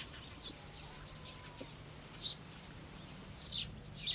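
Weaver birds chirping: short high chirps in quick clusters, busiest in the first second and again near the end, over a faint steady low hum.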